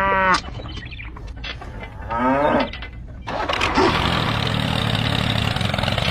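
A cow mooing twice, the second call rising in pitch, followed from about three seconds in by a steady noisy drone.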